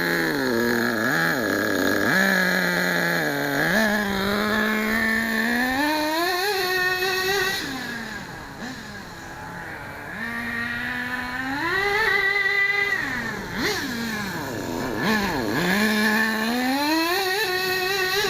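The small nitro glow engine of an HPI Savage RC monster truck, revving hard and falling back over and over, climbing three times to a high, briefly held scream. This is a run on freshly adjusted high and low speed needles after the engine had been running lean.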